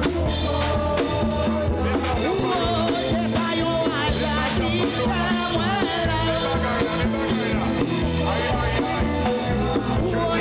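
Live gospel band music with singing: steady bass and a wavering vocal line over a continuous accompaniment.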